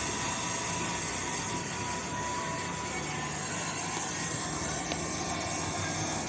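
MTR M-Train electric multiple unit heard from inside the carriage as it runs: a steady rumble and rail noise, with a faint steady whine that fades away in the first couple of seconds.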